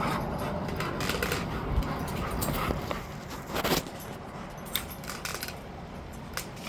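Dogs' collar tags jingling and clinking in scattered clicks as two dogs play-wrestle, busiest in the first few seconds.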